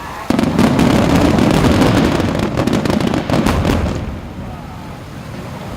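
Fireworks going off: a sudden loud bang about a quarter second in, then a dense run of sharp crackles that fades out after about four seconds.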